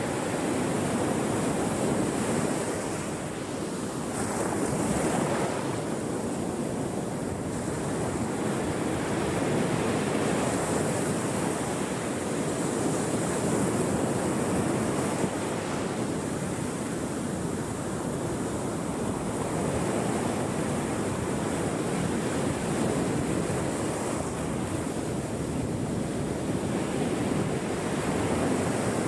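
Ocean waves breaking on a shore, a continuous wash of surf that swells and eases every few seconds.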